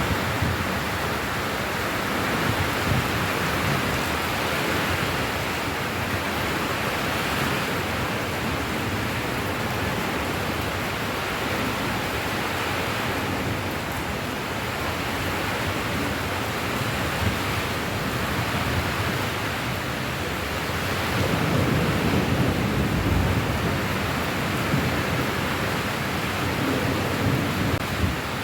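Steady rain with an even hiss. About two-thirds of the way in, a low rumble swells and then fades.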